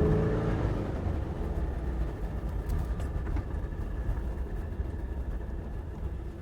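A 1967 Porsche 912's 2.1-liter flat-four engine finishes a rising rev about half a second in. Then the note drops away to a low rumble that fades slowly as the car goes on off throttle.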